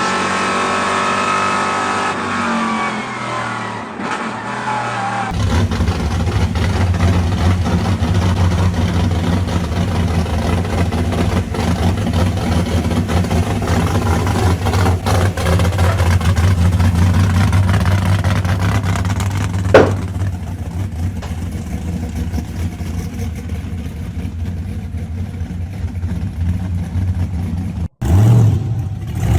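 Classic muscle car and hot rod engines running on the street. A high revving note falls away in the first few seconds, then a deep, steady engine rumble carries on, broken by one sharp crack about twenty seconds in.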